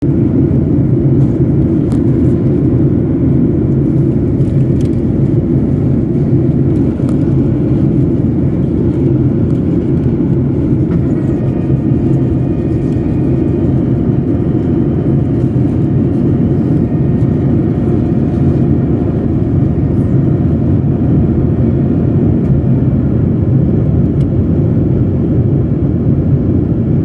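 Steady, loud low rumble of an airliner's cabin in cruise flight, with engine and airflow noise unchanging throughout. A faint high steady tone joins about halfway through.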